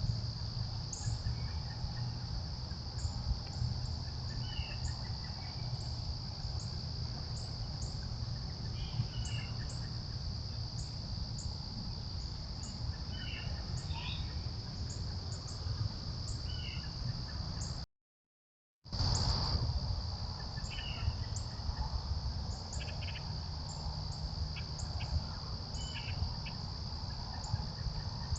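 Steady, unbroken high-pitched trilling of an insect chorus, typical of crickets in late summer, with scattered short chirps over it and a low rumble beneath. The sound cuts out for about a second just past halfway, then resumes the same.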